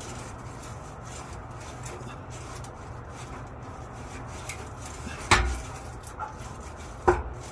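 Ford Bronco's stock exhaust muffler being wiggled loose from its rubber hanger grommets, giving two sharp clunks about two seconds apart in the latter half.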